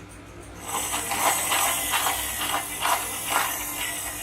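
Toy racing car running: a steady whir with repeated short clicks, starting about a second in.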